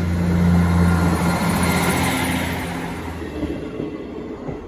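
Class 158 diesel multiple unit passing at close range, its underfloor diesel engines droning steadily over wheel and rail noise. The sound is loudest about half a second in and fades as the rear of the train goes by.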